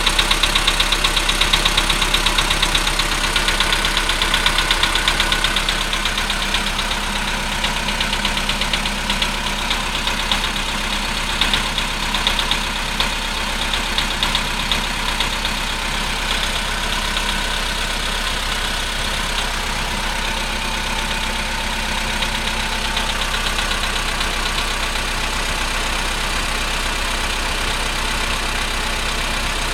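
Volkswagen Polo Sedan engine idling after a cold start with a fast, rapid knocking. The knocking is strongest in the first fifteen seconds or so, then settles into a more even idle.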